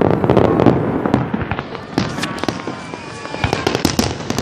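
Fireworks display going off: a dense run of sharp bangs and crackles, loudest about the first second.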